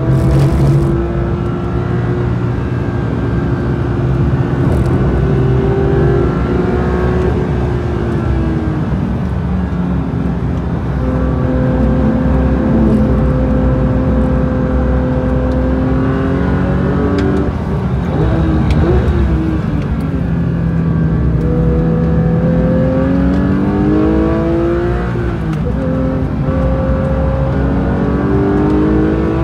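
Porsche 992 GT3's naturally aspirated flat-six heard from inside the cabin under hard track driving. The engine note falls as the car slows, holds steady through a long corner, and goes ragged around a downshift. It then rises under full throttle, dips briefly, and climbs again near the end.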